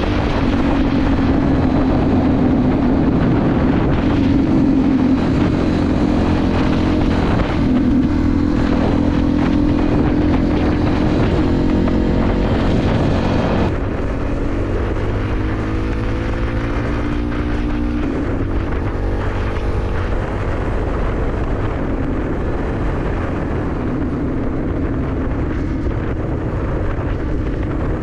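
2001 Suzuki DR650SE's single-cylinder four-stroke engine running on the move through an aftermarket SuperTrapp exhaust, with wind rushing over the microphone. About halfway through the sound drops a little in loudness, and the engine note climbs in pitch for a few seconds before settling.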